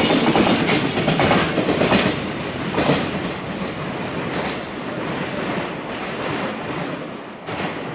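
Freight train's container flatcars rolling past, wheels clacking irregularly over rail joints. The noise fades as the end of the train moves away.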